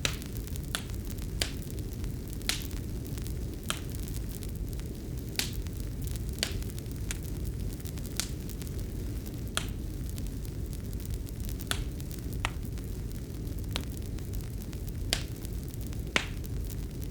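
Wood fire in a fireplace crackling: irregular sharp pops and snaps, roughly one a second, over a steady low rumble.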